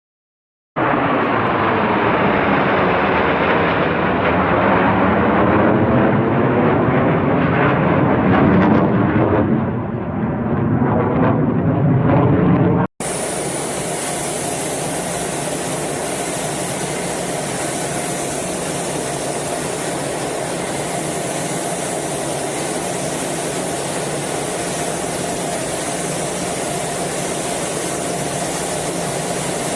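Military jet aircraft passing low overhead: a loud rushing roar whose tone sweeps down and back up as it goes by, ending abruptly about 13 seconds in. It is replaced by a steady, even rush of jet noise with a faint steady hum.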